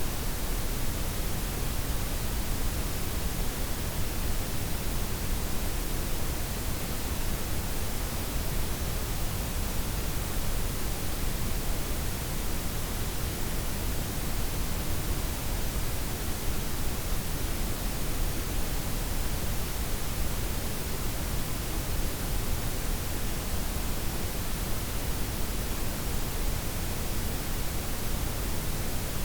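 Steady synthetic noise: a blend of white, pink and brown noise with the highs softened, an even hiss with a strong low rumble underneath, unchanging throughout.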